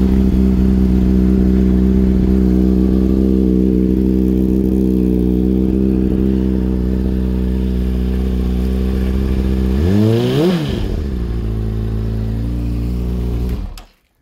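Honda CBR600RR inline-four engine idling steadily. About ten seconds in it gives one quick blip of the throttle that rises and falls back to idle. Near the end the engine cuts off suddenly.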